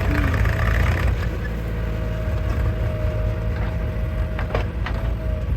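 Heavy diesel machinery engine running steadily with a low rumble and a steady whine, with a few sharp clicks about four and a half seconds in.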